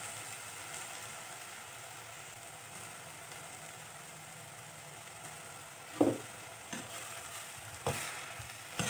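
Ivy gourd leaves and shallots sizzling steadily as they fry in a pot. About six seconds in, a spatula starts stirring them, with a few knocks against the pot, the first the loudest.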